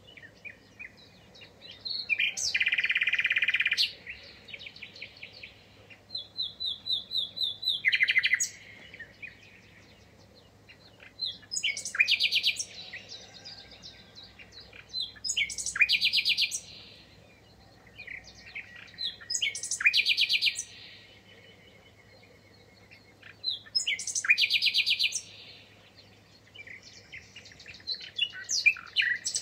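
Songbird singing in separate phrases of quick chirps and trills, a phrase every four seconds or so, with short pauses between.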